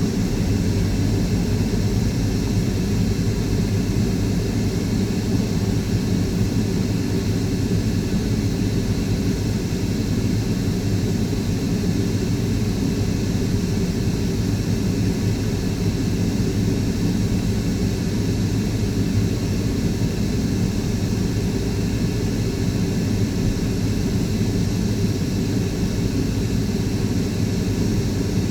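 Steady low mechanical drone, even throughout, with no distinct events.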